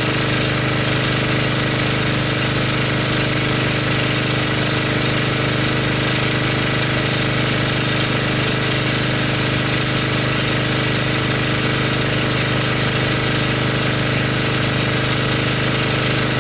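Pressure washer running steadily with a constant motor-pump hum, driving a foam cannon that sprays soap foam onto a car.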